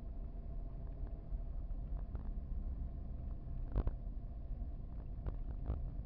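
Steady low rumble of a car heard from inside the cabin, with a few light knocks, the sharpest about two-thirds of the way through.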